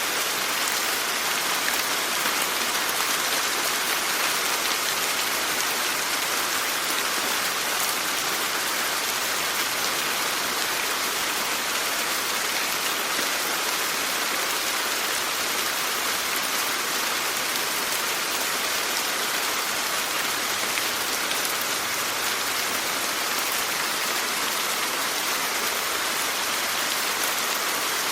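Steady rain falling, a dense even hiss of many drops with no individual strikes standing out.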